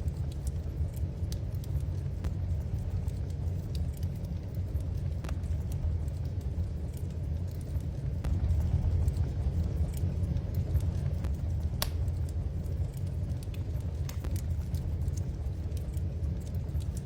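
Wood fire in a fireplace crackling: scattered sharp pops and snaps, one louder about twelve seconds in, over a steady low rumble.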